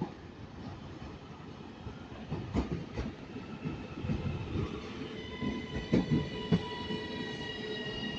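Northern Class 331 electric multiple unit pulling into the platform, its wheels knocking irregularly over the rail joints. About halfway in, a steady whine of several tones sets in and holds as it slows.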